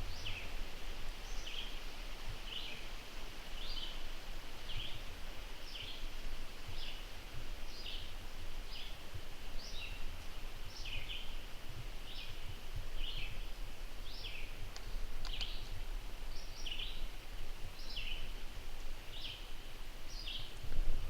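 A bird calling over and over with short, high, downward-slurred chirps, about one or two a second, in a night forest. A low rumble of wind on the microphone runs under it.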